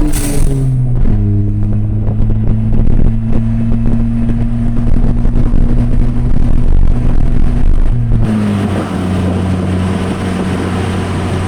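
Turbocharged 1.6-litre EcoBoost four-cylinder of a 2014 Ford Fiesta ST with a loud catless downpipe and 3-inch catback exhaust, heard from inside the cabin, droning at a steady cruise. Its pitch dips and recovers right at the start and drops to a lower steady note about eight seconds in.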